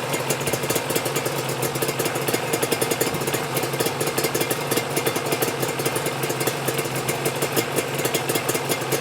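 Yamaha RZ250's two-stroke parallel-twin engine idling steadily, with a fast, even rattling clatter through the running. This is the abnormal noise the owner takes for a worn-out piston.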